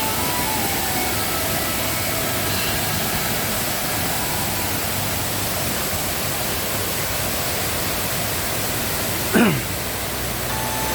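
Waterfall in full rainy-season flow, a steady rush of falling water. Near the end a brief, loud sound slides quickly down in pitch.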